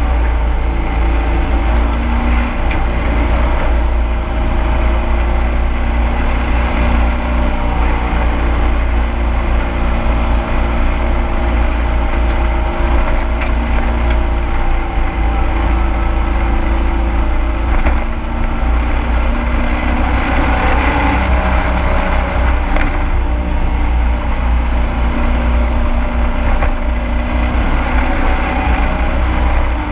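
A racing truck's engine heard from inside the cab, running hard the whole time, its pitch rising and falling with the throttle over a heavy low rumble.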